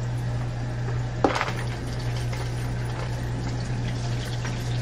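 Water running steadily from a tap, over a steady low hum, with one short knock about a second in.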